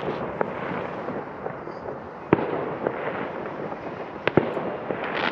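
Many fireworks going off in a steady crackle and rumble, with two sharp bangs about two seconds apart and smaller pops between them.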